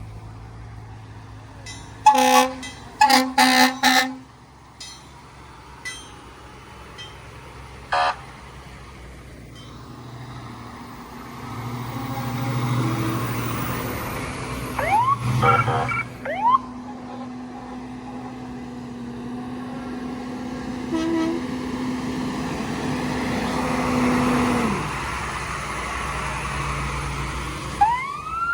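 Emergency vehicle responding: several short, loud horn blasts, then its engine drawing nearer and passing with a long, steady horn note and a few brief siren chirps.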